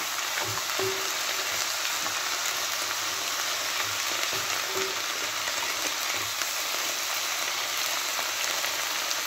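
Chopped onions and sliced mushrooms sizzling steadily in a non-stick sauté pan as a spatula stirs them.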